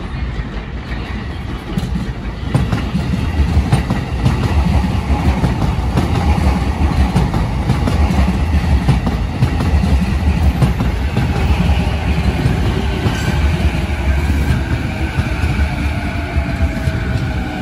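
JR East E233-5000 series electric commuter train pulling into the station and running close past: a steady, loud rumble of wheels on rail with clickety-clack over the joints. A thin whine falls in pitch near the end.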